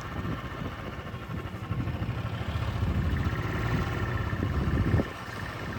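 Royal Enfield motorcycle's single-cylinder engine running at low speed on a broken road. The engine grows louder over a few seconds, then drops back suddenly about five seconds in.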